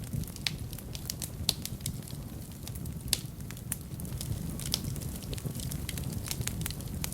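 Wood fire burning in a fireplace: irregular crackles and sharp pops over a steady low rumble of flame, with a couple of louder pops in the first half.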